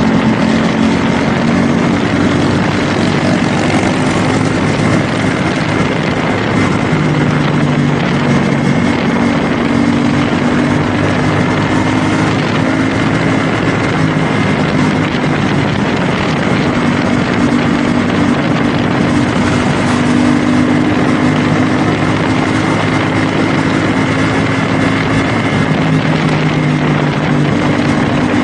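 CFMoto 450SR S motorcycle's 450 cc parallel-twin engine running steadily while riding at a near-constant speed, its pitch shifting only slightly, under a steady rush of wind and road noise.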